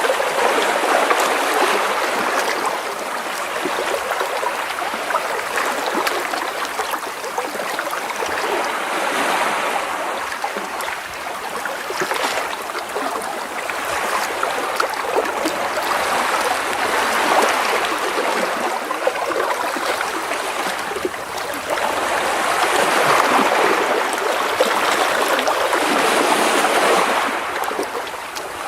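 Gentle sea waves washing and splashing against rocks close by. The water rises and ebbs in soft surges every few seconds, with bubbling and trickling as it drains back between them.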